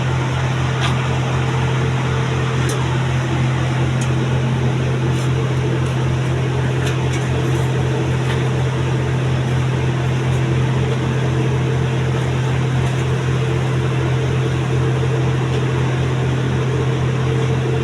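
Tractor-powered sewer suction machine running steadily: a constant low drone with a quick, even pulsing underneath.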